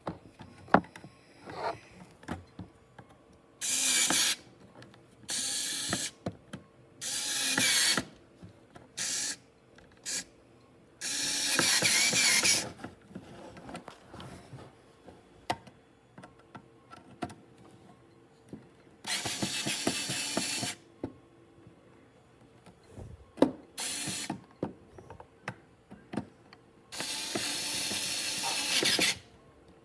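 Electric screwdriver running in short bursts of one to two seconds, about eight times, driving screws, with small clicks and taps of handling between the bursts.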